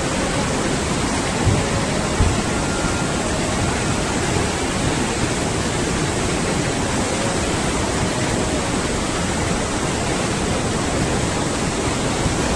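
Swollen floodwater of a river rushing and churning in a steady, dense roar, with a couple of brief low knocks about two seconds in.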